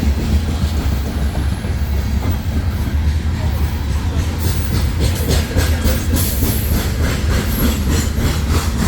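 Cars of a CSX empty grain hopper freight train rolling past, with a steady low rumble. Wheels click over the rail joints, the clicks coming thicker and more regular from about halfway through.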